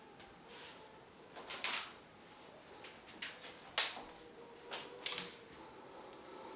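A handful of light, irregular clicks and knocks, the sharpest one nearly four seconds in, over a faint steady hum.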